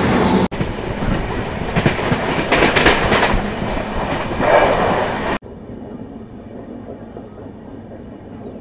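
Passenger train running on the rails, its wheels clattering over the track. About five seconds in, the sound cuts abruptly to a much quieter, steady noise.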